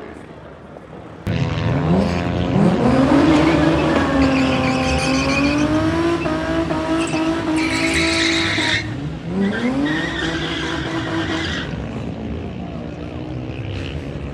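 A performance car's engine revs up hard and is held high for several seconds while the tyres squeal as they spin or slide. The revs drop just before the middle, climb and hold again, then fade away.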